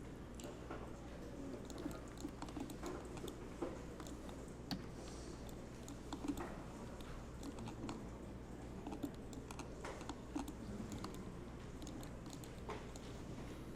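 Computer keyboard keys tapped in an irregular run of light clicks, with a steady low hum underneath.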